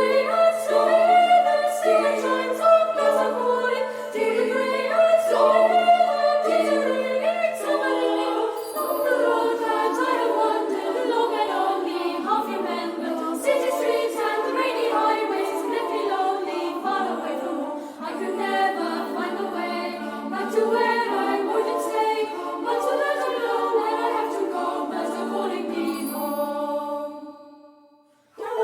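Choral singing: many voices unaccompanied, with a held low drone note under them at the start, fading out near the end.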